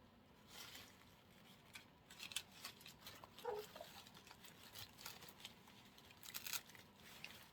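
Faint scattered rustling and light ticks of artificial flower picks being handled and placed in an arrangement.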